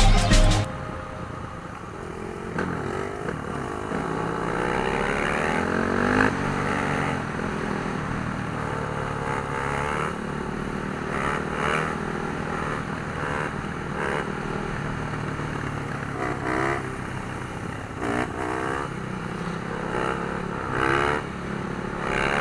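Dirt bike engines running and revving up and down again and again, with rising and falling engine pitch. Music cuts off just under a second in.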